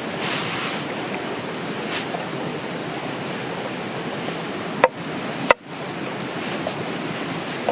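Steady rushing of a flowing river, with a couple of sharp clinks about five seconds in.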